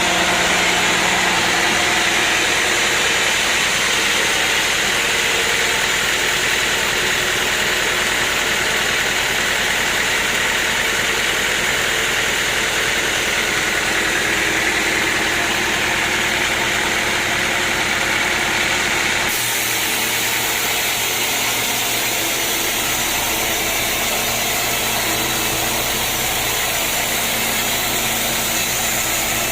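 Sawmill machinery running steadily: a loud, even engine-like drone with several steady tones. About two-thirds of the way through the sound changes abruptly, as at a cut.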